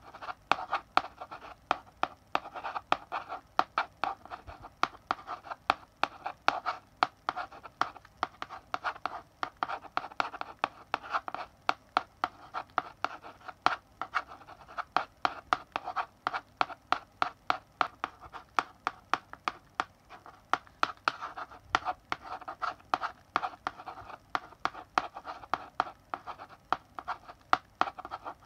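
Chalk writing on a blackboard: a run of irregular scratchy strokes with sharp taps where the chalk meets the board, continuous and unhurried.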